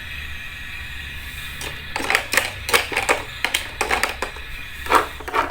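Miniature kitchen utensils and cookware being handled: a quick run of sharp little clicks and taps starting about two seconds in, over a steady low hum.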